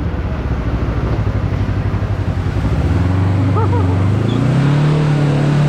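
Can-Am Maverick X3 side-by-side engine running under way on a trail, a steady drone. About three seconds in, the engine note climbs as it speeds up, then holds at the higher pitch.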